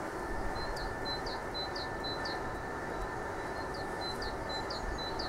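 A small bird singing a quick two-note phrase over and over, about two phrases a second, pausing briefly midway, over a steady outdoor rumble.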